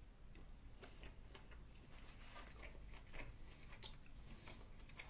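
Faint chewing of a mouthful of burger: soft, irregular mouth clicks and smacks.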